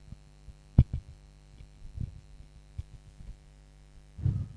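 Steady low electrical hum, with a few dull thumps: a sharp one about a second in, softer ones in the middle and a louder low thud near the end.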